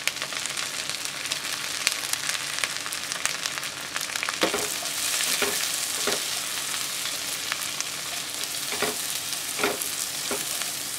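Sliced onion sizzling in hot sesame oil with ginger and garlic in a non-stick wok, stirred with a spatula. The frying hiss is steady, with a few sharper spatula strokes about halfway through and again near the end.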